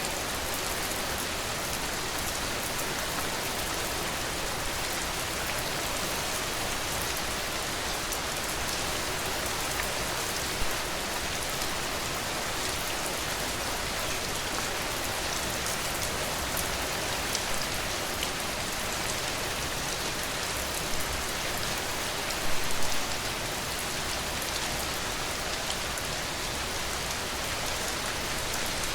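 Steady rain falling, a dense even hiss of drops on a surface, with a few louder drops striking close by, a short flurry of them about two-thirds of the way through.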